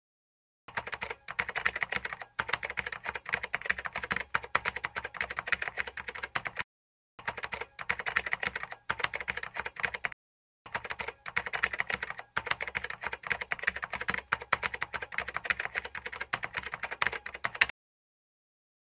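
Typing sound effect of rapid computer-keyboard key clicks. It starts a moment in, breaks off twice for about half a second, and stops about a second before the end.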